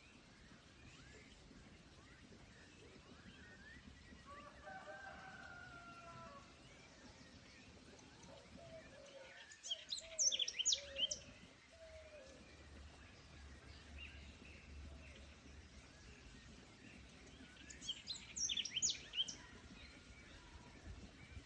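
Forest ambience in which a songbird twice sings a short burst of sharp, high, quickly repeated notes, about ten seconds in and again near the end. Lower, wavering calls, like a distant rooster crowing, come before the first burst, over a faint steady background of the woods.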